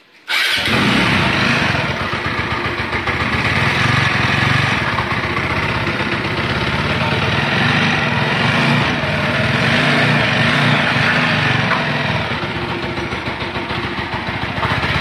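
A TVS Apache RTR 200 4V motorcycle's single-cylinder engine starts about half a second in and keeps running steadily. This is its first run after a full engine rebuild with the cam and ignition timing freshly set.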